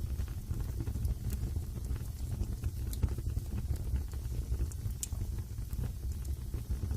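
Wood fire burning in a fireplace: a steady low rumble of flames with scattered sharp crackles and pops, the clearest about five seconds in.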